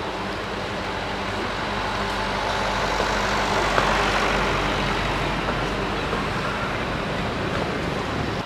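A road vehicle's engine passing close, growing louder to a peak about four seconds in and then fading as it moves away.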